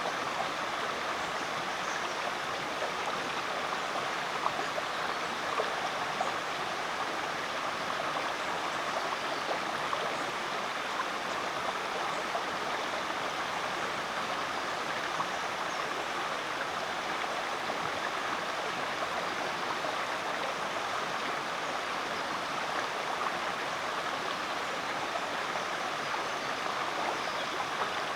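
Rainforest creek flowing steadily over rocks: a constant rush of running water with small splashes and gurgles throughout.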